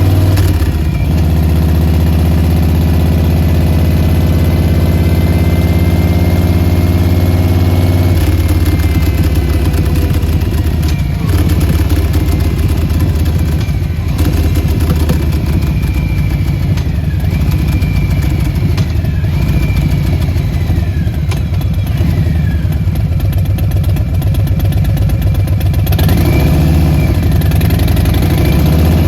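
Harley-Davidson Softail Standard's Milwaukee-Eight 107 V-twin idling steadily through Vance & Hines Short Shots aftermarket mufflers; its note shifts slightly about eight seconds in.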